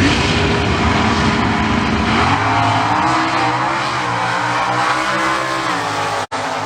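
Two drag-racing cars, a Ford Maverick with a Mercury Cougar V8 and a 1969 Camaro with a 396 big-block V8, launching and running at full throttle down the strip. The engine note climbs in pitch, then falls slowly as the cars pull away, with a momentary cutout in the sound near the end.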